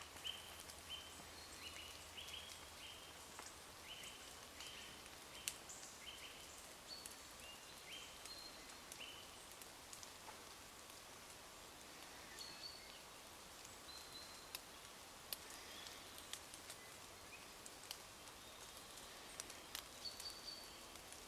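Light rain falling in woodland, with scattered sharp ticks of drops landing. A songbird sings a short note over and over, about twice a second, for the first ten seconds, and gives occasional higher notes later.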